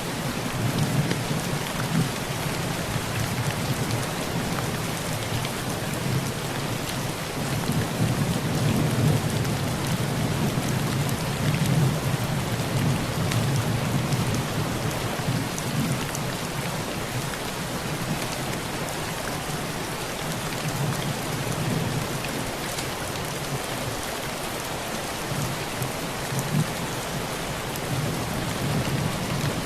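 Heavy rain hitting a thin tin roof in a steady hiss, with a low rolling rumble of thunder that swells through the first half and eases off later.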